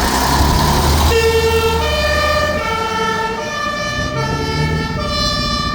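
Fire engine's two-tone siren sounding, stepping back and forth between a high and a low note, over the truck's deep engine rumble; it is preceded by a loud rush of noise in the first second.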